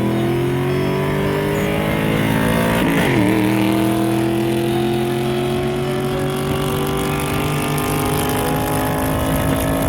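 Car engine accelerating under load, its pitch climbing steadily, with a quick dip about three seconds in like a gear change before it climbs again.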